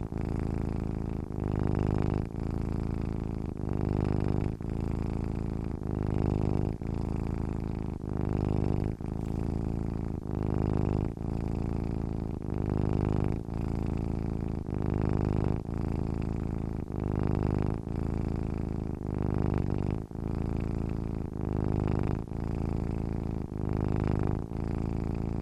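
Domestic cat purring steadily in its sleep, a low continuous rumble that swells and dips in an even rhythm about once every second or so.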